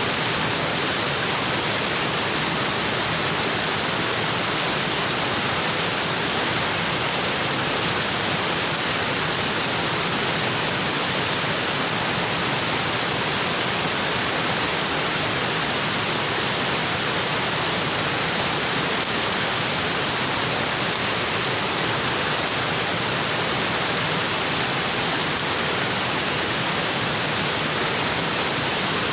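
Waterfall: water falling onto rocks in a steady, unbroken rush.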